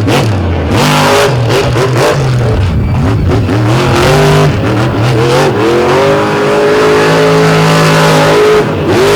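Monster truck engine revving hard over and over, its pitch rising and falling. The engine is held high and steady for a couple of seconds near the end.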